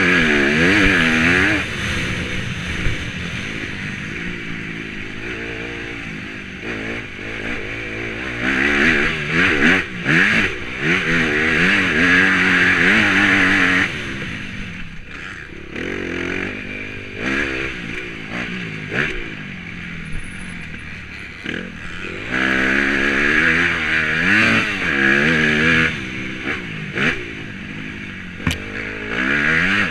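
Motocross bike engine revving hard and dropping back again and again as the rider accelerates, shifts and rolls off the throttle, with loud full-throttle stretches between quieter ones.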